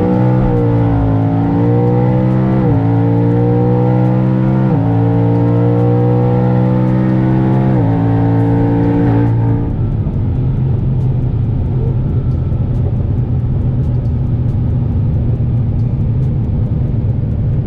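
Twin-turbo Ford Mustang accelerating hard at full throttle, heard from inside the car. The engine note climbs and drops sharply three times as it shifts up through the gears. About nine and a half seconds in, the throttle is lifted and the engine settles to a lower, steady drone.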